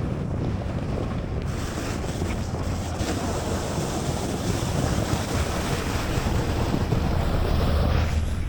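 A 4x4 driving on a packed-snow road: a steady low rumble of engine and tyres with a rushing, wind-like hiss that grows brighter about a second and a half in.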